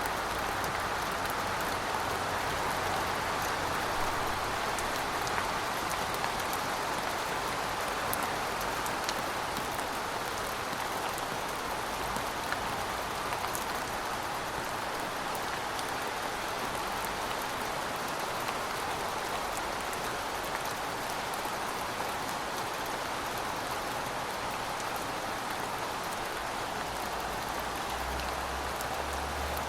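Steady rain falling on pavement, a constant even hiss with scattered drops ticking.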